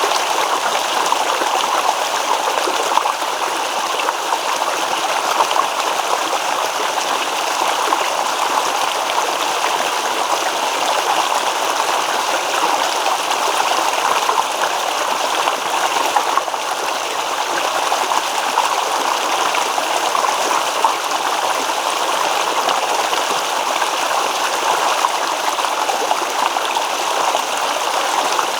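Small stream babbling and trickling over rocks, a steady rush of running water with no pauses.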